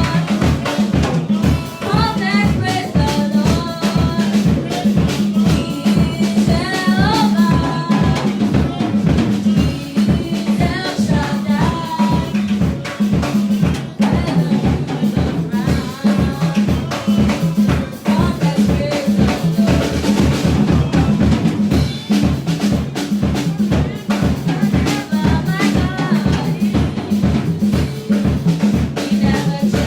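Live church praise music for dancing: a drum kit plays a fast, steady beat of bass drum, snare and rimshots under a wavering melody line.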